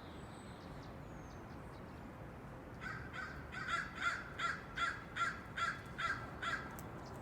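A bird gives a series of about ten short, harsh caws, about two or three a second, starting about three seconds in, over a steady outdoor hiss.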